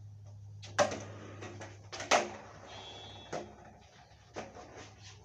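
Skateboard ollie: the tail snaps on the ground, then the board lands with a second sharp clack just over a second later. Two lighter knocks follow as the board rolls on.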